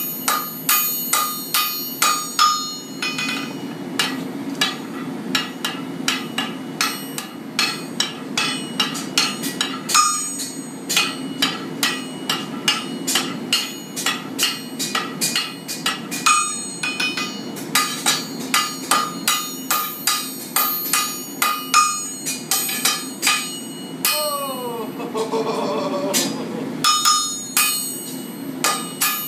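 Hammer and sledge striking hot steel on an anvil in quick rhythmic blows, about two to three a second, each with a ringing clang, with a few short pauses. A steady low hum runs underneath, and a brief falling whine comes near the end.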